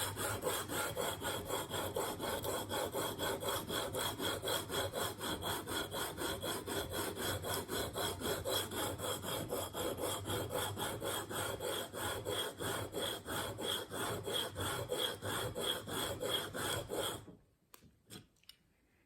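Steel broadhead edge and a 220-grit diamond sharpening plate, wet with Windex, rubbing back and forth in rapid, even strokes, about three a second. This coarse grinding sets the bevel angle and raises a burr. The strokes stop suddenly near the end, followed by a couple of light clicks.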